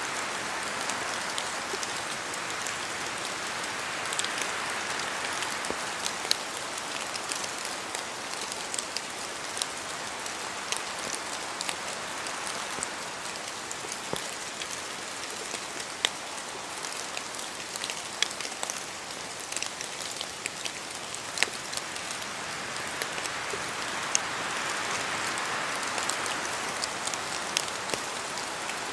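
Steady rain falling on forest trees, with many sharp drips from the leaves scattered through it. The hiss swells near the start and again near the end.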